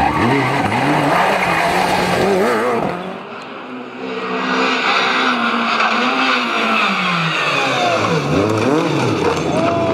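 Rally car engine revving hard at speed, its pitch climbing and dropping with gear changes and lifts off the throttle, with tyre skidding noise. The engine briefly drops quieter about three seconds in before picking up again.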